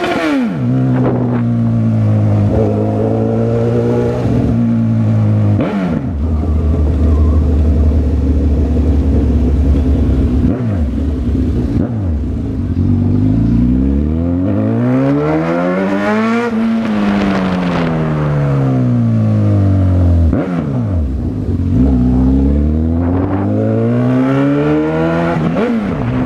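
Honda CB1000R's inline-four engine heard while riding, its pitch rising and falling several times as the throttle is opened and closed. It drops suddenly at a few points and makes one long climb followed by a slow fall about two-thirds of the way through.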